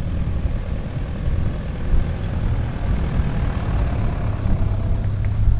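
Toyota Prado four-wheel drive's engine running at idle, a steady low hum under uneven wind rumble on the microphone.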